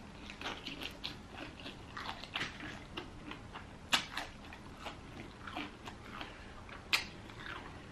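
Close-miked chewing of crispy fried chicken: many small crunches and wet mouth clicks, with two sharper crunches about four and seven seconds in.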